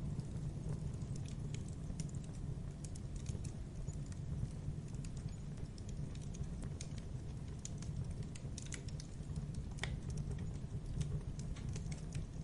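A wood fire burning: a steady low rumble under irregular sharp crackles and pops, some coming in quick little clusters.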